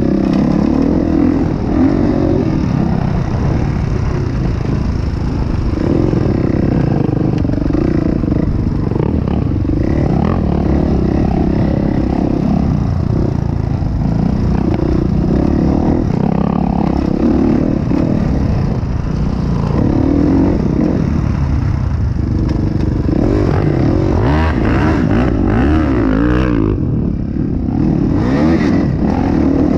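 Honda CRF450 motocross bike's four-stroke single-cylinder engine being ridden, revs rising and falling again and again, with a short easing off the throttle near the end.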